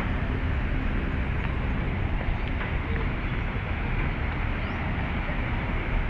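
Steady rumble of city traffic heard from a park walkway, an even wash of engine and tyre noise with no single vehicle standing out.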